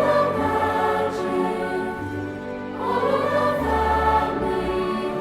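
Background music: a choir singing held chords, swelling at the start and again about three seconds in.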